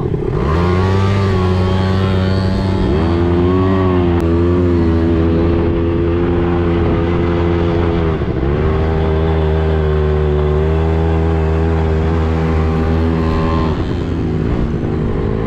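Quad bike engine running under throttle, its pitch shifting as the throttle changes. It climbs about three seconds in, dips and picks up again about eight seconds in, and falls near the end.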